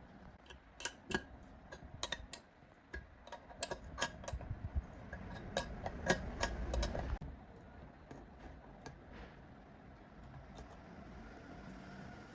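Irregular sharp clicks and taps of hand tools and parts being handled, over a low rumble that cuts off suddenly about seven seconds in.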